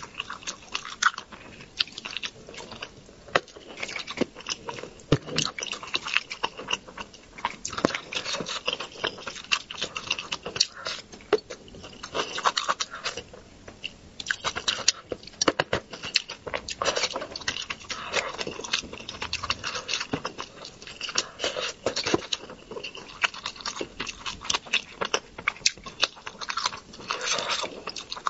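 Close-miked eating sounds: chewing and wet mouth smacks of someone eating spicy braised fish, many small irregular clicks and smacks.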